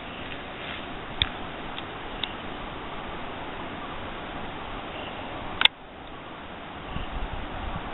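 Steady rush of falling water from a waterfall, with a few sharp clicks, the loudest a little past halfway.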